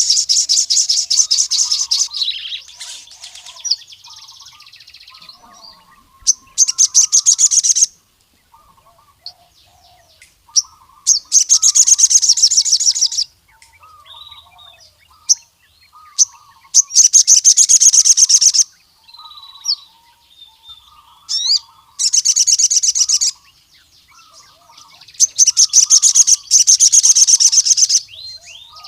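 Male sogon sunbird singing. Its song comes as loud, rapid high-pitched trilled bursts of one to two seconds each, about six times, with softer, lower chittering notes in between.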